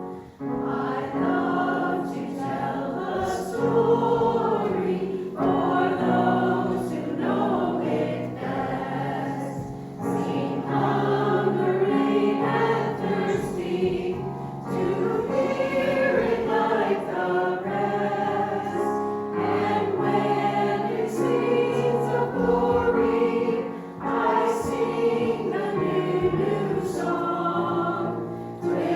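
A church choir singing a sacred song in sustained phrases, with short breaths between phrases about ten seconds in and again near the end.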